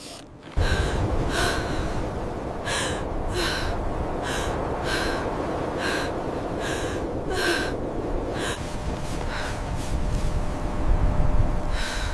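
Heavy, gasping breaths from people straining under exertion, repeating roughly every half second to second, over a steady low rumble of blizzard wind that starts about half a second in.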